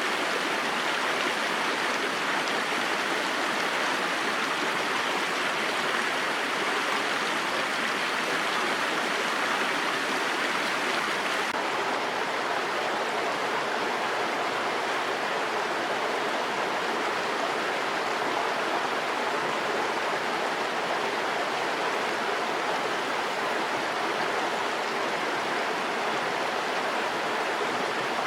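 Mountain stream rushing, a steady, loud wash of water with no breaks.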